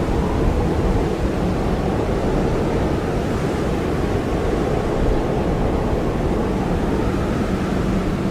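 Blizzard wind blowing hard and steadily, a dense low rushing noise that swells slightly in gusts.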